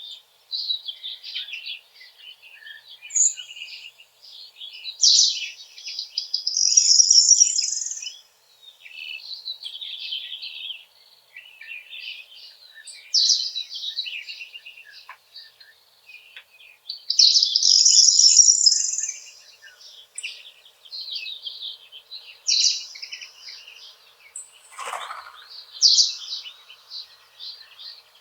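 Several songbirds chirping and singing at once. One bird gives louder, high song phrases every few seconds over a steady stream of quieter calls.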